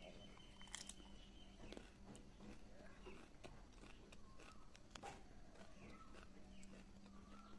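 Faint, wet crunching of a mouthful of leaf-wrapped singju being bitten and chewed, with scattered sharp crunches every second or so.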